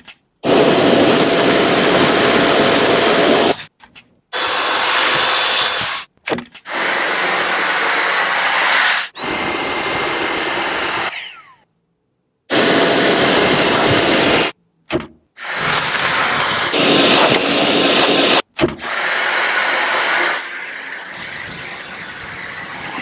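Cordless stick vacuum cleaner running, in a string of short segments that start and stop abruptly. Each is a steady rush of air with a thin, high, steady whine over it.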